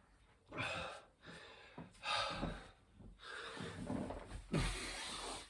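A man breathing hard and fast mid-workout, with a run of heavy, noisy breaths about once a second, from the exertion of a high-rep burpee set.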